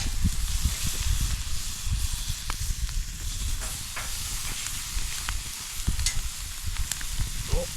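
Sirloin steak sizzling on a grill top over a campfire: a steady hiss with scattered crackles and pops.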